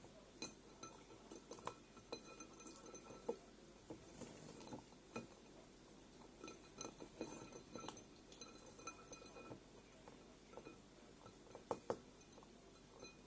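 A budgie tapping and clinking against its container as it drinks and bathes in cola: faint, irregular small clicks and clinks, a few louder taps near the start and close to the end.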